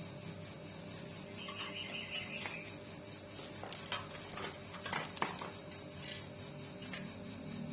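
Light metallic clicks and taps from small tools and parts being handled on a sewing machine under repair, scattered through the second half, with a brief high-pitched tone about two seconds in.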